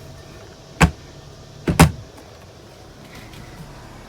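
Camper cabinet door knocking shut: one sharp knock a little under a second in, then a quick double knock just before the two-second mark.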